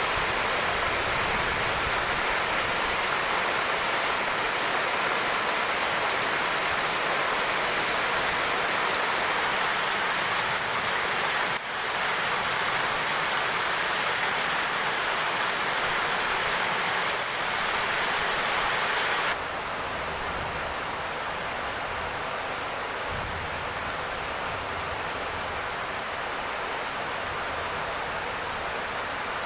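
Rain falling as a steady, even hiss. About two-thirds of the way through it drops suddenly to a somewhat quieter, duller level.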